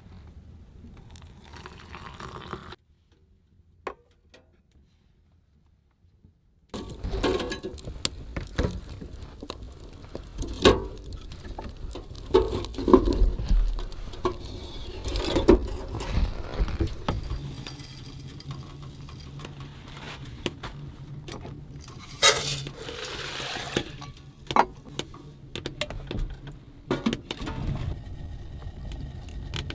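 Irregular knocks, clicks and clatter of objects being handled, after a few seconds of near silence. A low steady hum comes in about halfway through.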